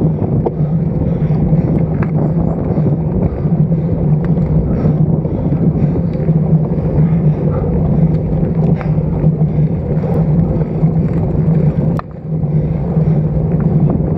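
Wind buffeting the microphone of an action camera mounted on a moving road bike: a loud, steady rushing rumble, with a brief drop about twelve seconds in.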